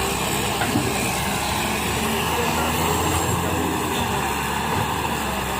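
Wheeled excavator's diesel engine running steadily.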